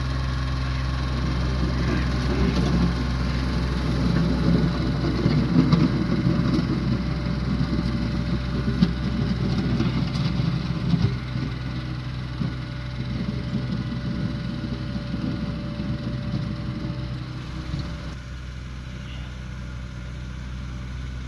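Tractor engine running steadily with a low hum while clearing snow, rougher and louder for several seconds in the first half, then easing off and getting quieter toward the end.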